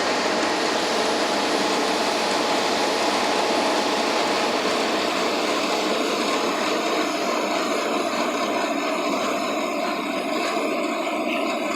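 Steady running noise of an express passenger motorboat under way: engine drone mixed with rushing water and wind, easing off a little in the second half.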